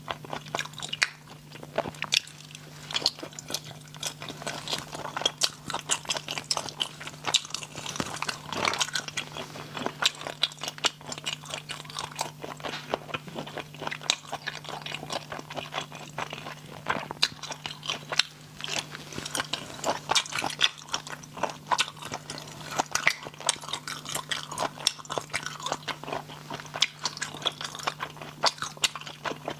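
Close-miked eating of spicy snails: a steady stream of crunching, chewing and sharp little clicks, over a steady low hum.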